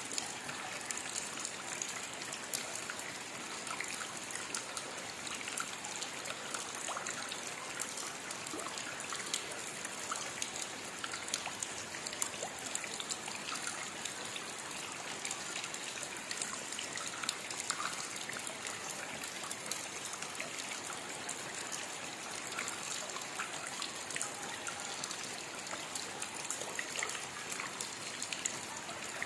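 Steady rainfall: an even hiss of rain dotted with many small drop ticks, unchanging throughout.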